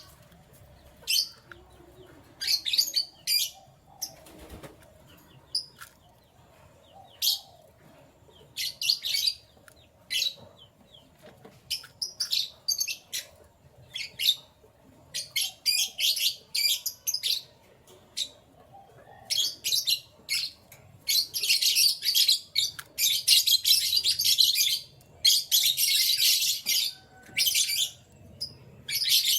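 Canaries chirping in short scattered high-pitched calls, breaking into longer, denser runs of song about two-thirds of the way through.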